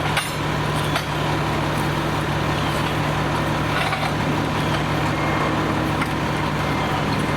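Fire apparatus diesel engine running steadily at idle, a constant low hum over a wash of engine noise, with a few faint clicks.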